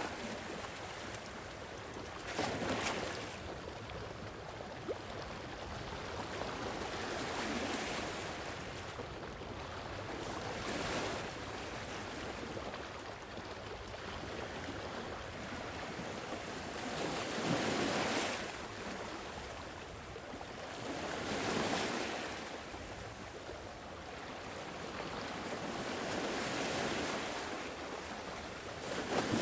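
Sea waves washing onto a shore, swelling and falling back every few seconds over a steady hiss of surf.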